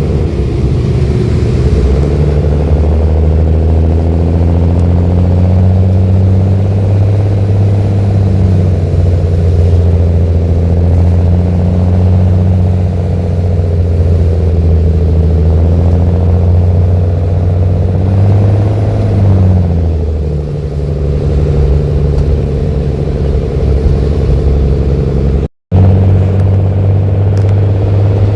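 Mercedes-Benz OH-1318 bus's diesel engine running through an open, unmuffled exhaust, a loud, deep, steady note whose pitch dips and climbs again twice, around twelve and twenty seconds in. The audio cuts out for a moment near the end.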